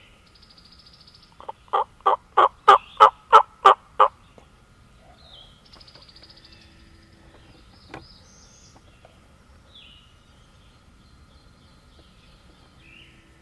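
A hand-run turkey call sounding a series of about eight hen yelps, about three a second, growing louder, sent out to draw a response from a gobbler. Small songbirds chirp faintly around it.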